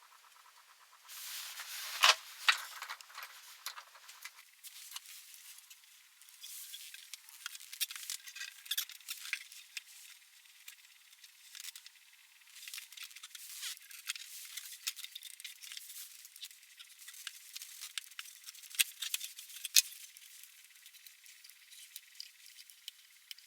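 Irregular clicks and light rattling of small metal parts and hand tools being handled, with a few sharper clicks about two seconds in and again near the end.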